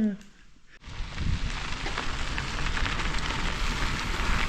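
Steady rushing wind noise on the microphone outdoors, with a low, fluctuating rumble. It starts abruptly about a second in, after a moment of quiet room tone.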